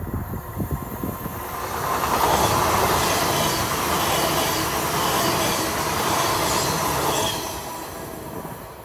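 GWR Class 802 intercity train passing close by. Its rushing wheel-and-rail noise swells about a second and a half in, stays loud for about five seconds as the coaches go by, then fades away. Wind buffets the microphone before the train arrives.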